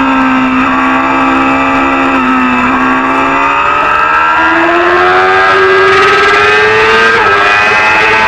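Supersport 300 racing motorcycle engine at high revs. Its pitch holds low for a few seconds, then climbs steadily as it accelerates, with a quick drop in pitch about seven seconds in.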